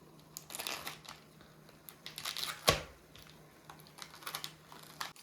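Scattered rustling and clattering as tableware and food are handled, with one sharp knock a little past halfway.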